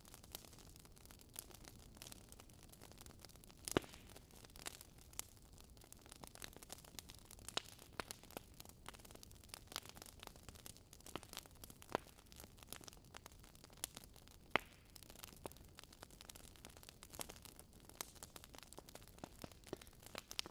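Wood fire crackling, with irregular sharp pops and snaps over a faint steady hiss; two pops, about 4 s and 14 s in, stand out.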